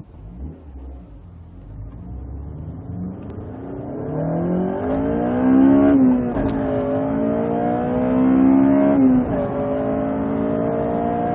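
Honda Civic Si's four-cylinder i-VTEC engine heard from inside the cabin, accelerating from a standstill through the gears. The revs climb, drop at an upshift about six seconds in, climb again, drop at a second upshift about nine seconds in, then climb once more.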